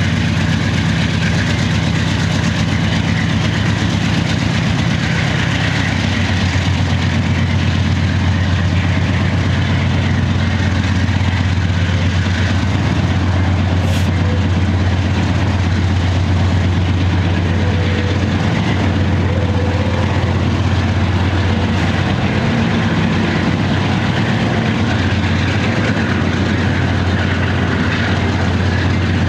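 BNSF freight diesel locomotives (GE C44-9W and an EMD SD70MAC) running under heavy throttle with a steady low engine drone. The engines pass and pull away, and the double-stack container well cars roll by on the rails.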